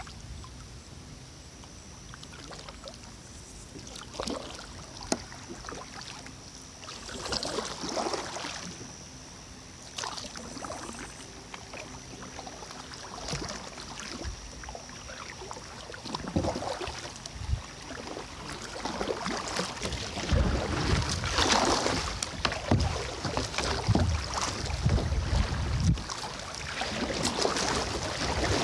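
Kayak paddle dipping and splashing in river water, stroke after stroke at an uneven pace. Wind buffets the microphone, growing louder in the second half.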